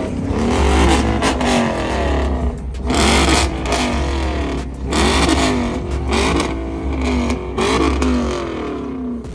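Car engine being revved hard over and over, about once a second, its pitch climbing and dropping back each time, over a loud hiss of noise.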